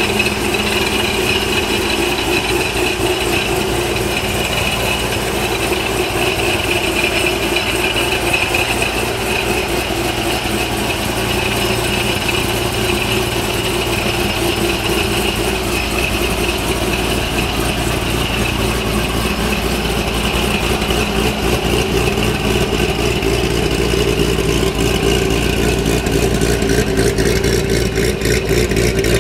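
ProCharger-supercharged C6 Corvette V8 with an aftermarket cam idling steadily.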